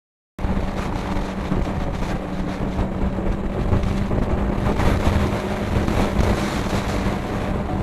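Yamaha R6 motorcycle's inline-four engine running at a steady cruise with a constant drone, under heavy wind rush on the microphone. It cuts in suddenly about half a second in.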